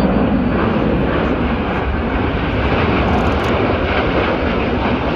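Aircraft engine noise at an air show: a loud, steady rush with no clear pitch and no sudden change.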